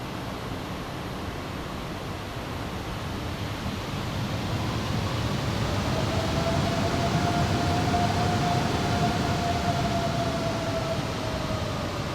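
Jet airliner engines going past: a rushing noise swells over several seconds and then eases, with a steady whine that sinks slightly in pitch near the end.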